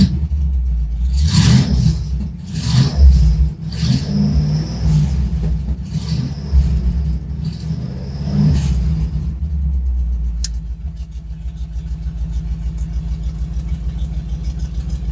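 The Ranger truck's engine, exhausting through a new header into a 2.5-inch collector and straight out to 3-inch pipe, is blipped several times in quick revs. About ten seconds in it settles back to a steady, pulsing idle. A single sharp click sounds just after it settles.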